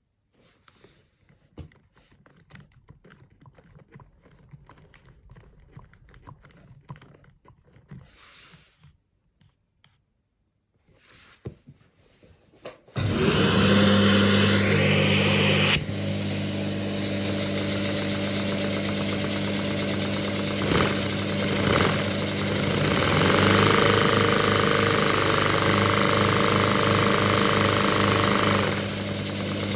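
Scattered light plastic clicks, then about 13 seconds in a loud, steady motor noise starts: a Lego four-cylinder vacuum engine running on the suction that drives it. The noise is loudest for the first few seconds and then settles a little lower, with some rhythmic pulsing.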